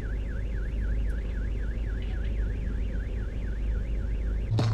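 A siren tone warbling rapidly up and down, about four sweeps a second, over the steady low rumble of a car and road noise. A thump comes near the end, and the sound then cuts off suddenly.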